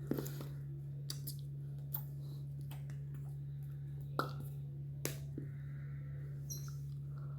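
A steady low hum with scattered short clicks and taps, the sharpest just past four seconds and about five seconds in.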